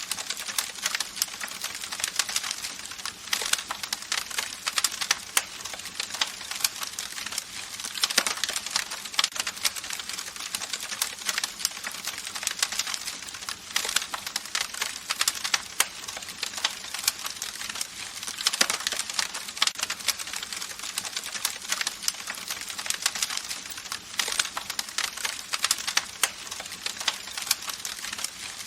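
Wood campfire crackling: a dense, unbroken stream of small pops and snaps, with almost no low end.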